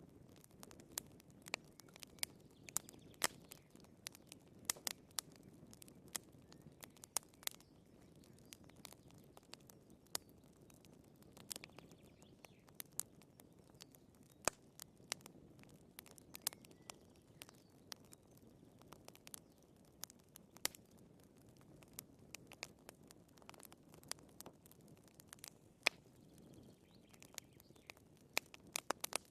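Wood fire crackling: irregular sharp pops and snaps, several a second at times, over a soft steady hiss of burning logs.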